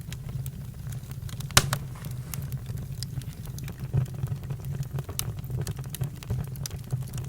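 Campfire crackling: scattered pops and snaps over a steady low rumble, with one louder pop about a second and a half in.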